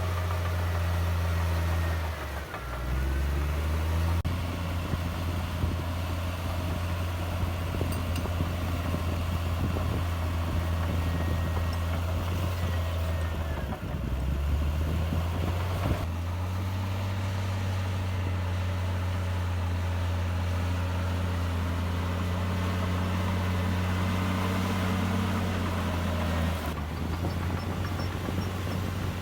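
Diesel engine of a Komatsu D58E bulldozer running steadily at work. Its note dips and recovers about two seconds in and shifts up and down a few more times as the load changes.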